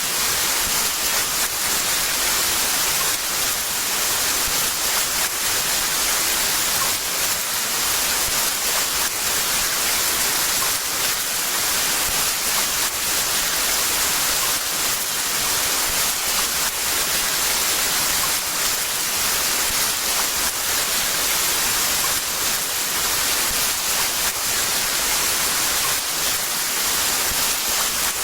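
Heavy rain falling steadily, a dense even hiss with no separate drops or thunder.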